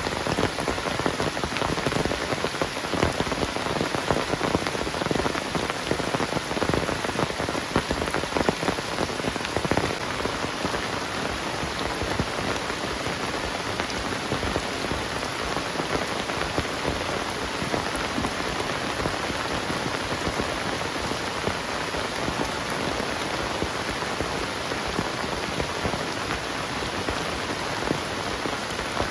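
Heavy tropical rain falling steadily, a dense patter of countless drops, a little heavier in the first few seconds.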